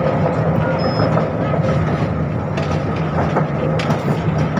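A 71-605 (KTM-5M3) tram running along the track, heard from aboard: a steady rumble of wheels on rails and a hum from its DK-259 traction motors, with scattered clicks and rattles.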